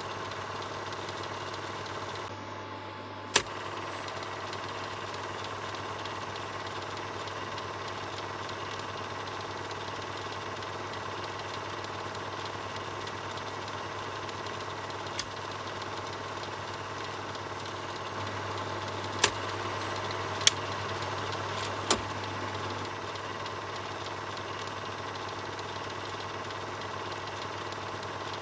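Film projector running steadily: a continuous mechanical whirr over a low motor hum. A few sharp clicks cut through it, one a few seconds in and three close together about two-thirds of the way through.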